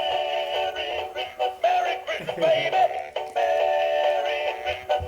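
Animated singing Christmas dog toy playing a Christmas song: an electronic singing voice over music, in held, sung phrases.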